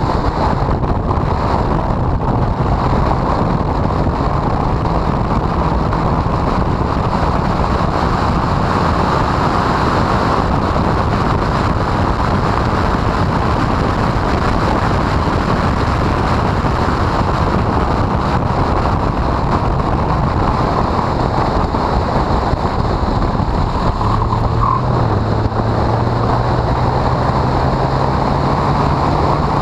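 Honda CRX engine at speed on track, heard faintly under heavy wind buffeting on the microphone. The engine note climbs steadily in the last few seconds as the car accelerates.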